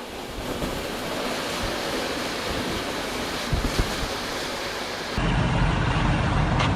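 Wind blowing, a steady rushing noise; about five seconds in it turns into a louder, deeper rumble of wind buffeting the microphone.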